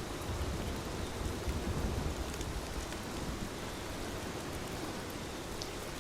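Steady rain falling and pattering, with a low rumble swelling through the first couple of seconds. A few faint crackles from a fireplace fire.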